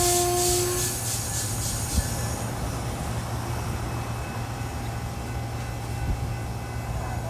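A passing train: a steady low rumble, with a high fluttering rush of wheels in the first couple of seconds. A steady pitched tone from the train stops within the first second.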